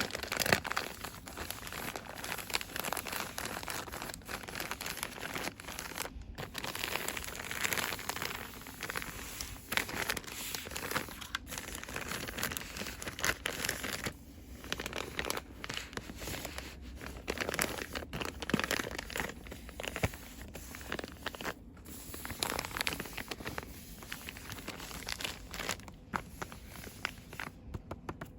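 Fast, aggressive crinkling and rustling of product packaging handled by hands, in dense irregular crackles with a few brief pauses.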